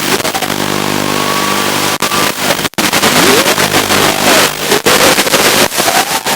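Brushless motors of a small toothpick FPV quadcopter whining, the pitch gliding up and down with throttle. Heavy static hiss with a few brief crackling dropouts, as recorded through FPV goggles.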